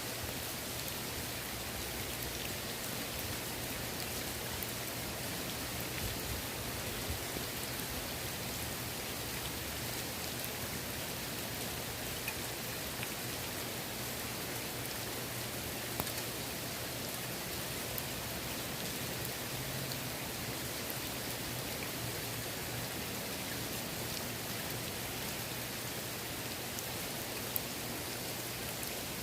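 Steady rain falling on a swimming pool's water, an even hiss with scattered sharper drop ticks, over a faint low hum.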